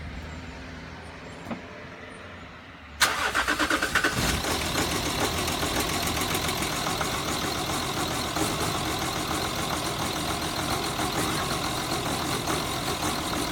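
A 2008 Jaguar XF's 2.7-litre V6 diesel starting from cold about three seconds in, catching with a few strong uneven pulses, then idling unevenly. The unevenness is the cold-start misfire that lasts the first 30 to 60 seconds of the day.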